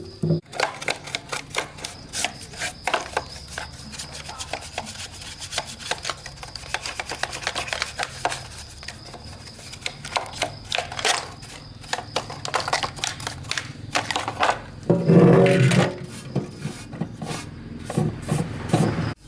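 Hand scraping and rubbing: rapid, irregular scratching strokes, with a louder, heavier stretch of rubbing about fifteen seconds in.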